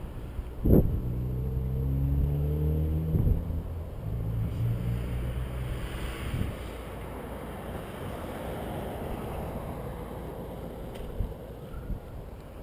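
Wind and ride noise on a bicycle-mounted GoPro's microphone while riding, with a steady low droning hum for the first few seconds and a broad rushing swell in the middle.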